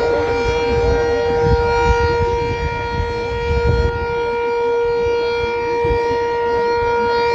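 Sentry 7V8 outdoor tornado warning siren sounding a steady single tone for a tornado drill, holding its pitch without rising or falling, over a low rumble.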